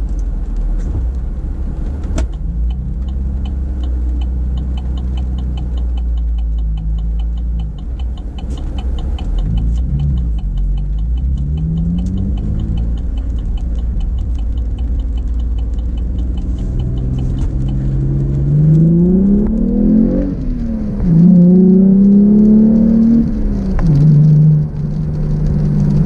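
2014 Camaro's 3.6-litre LFX V6 with the NPP dual-mode exhaust, pulling under throttle. The engine note rises sharply, drops at a gear change, then climbs again, loudest near the end.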